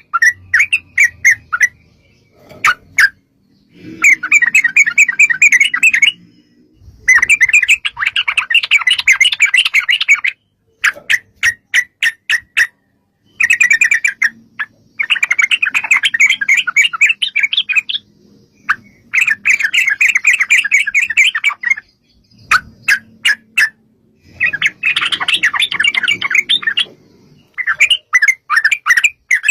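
Yellow-vented bulbul (trucukan) singing loudly in long, rapid bubbling runs of two to three seconds, broken by strings of separate short notes and brief pauses.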